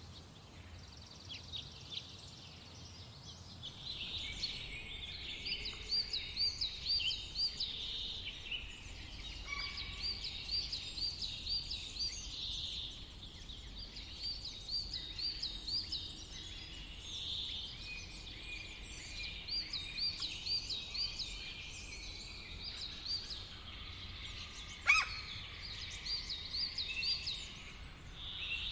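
Forest songbirds singing, one repeating a short phrase of quick, high arched notes every few seconds, over a low steady rumble. A single sharp click sounds near the end.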